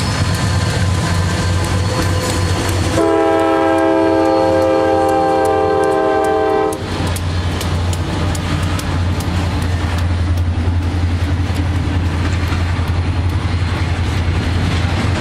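Diesel freight locomotive sounding its multi-note air horn in one long blast starting about three seconds in and lasting nearly four seconds, over the steady low drone of its engine. After the horn stops, the train rolls on with wheels clicking over rail joints.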